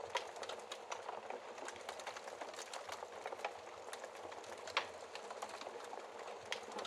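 Wood fire crackling in a fireplace: a steady hiss with many small snaps and pops, one louder pop near the end.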